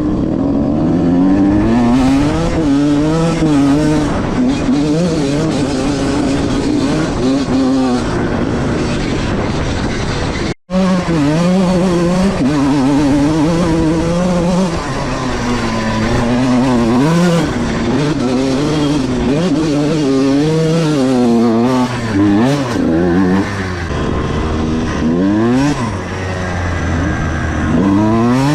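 1997 Honda CR125R's single-cylinder two-stroke engine revving up and down repeatedly, its pitch climbing and falling again and again. The sound cuts out completely for a split second about ten seconds in.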